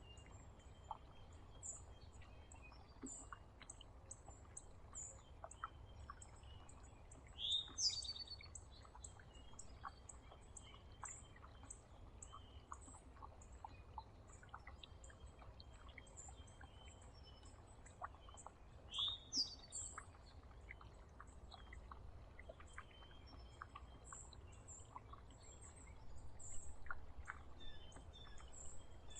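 Wild songbirds at a feeder: a short, loud, slurred song phrase comes twice, about eleven seconds apart, over a steady run of thin high chips, with faint scattered ticks and a low steady rumble underneath.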